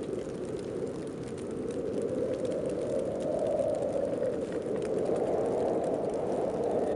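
Heavy snowstorm wind blowing steadily, swelling in strength about three seconds in and again near the end.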